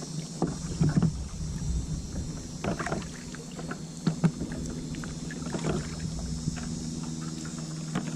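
Kayak being paddled: irregular splashes and knocks of the paddle in the water and against the hull, loudest about a second in and again about four seconds in, over a steady low hum.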